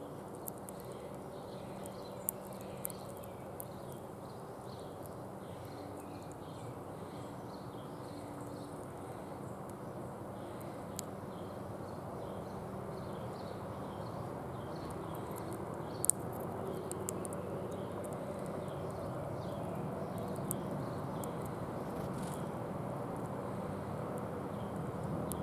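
Outdoor background at a bird feeder: a steady low hum and haze, faint scattered bird chirps, and a few sharp clicks, the loudest about sixteen seconds in.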